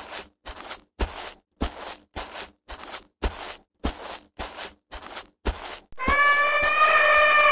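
Heavy elephant footsteps, an even stomping beat a little under two thuds a second. About six seconds in, an elephant's long trumpet call comes in over the last steps.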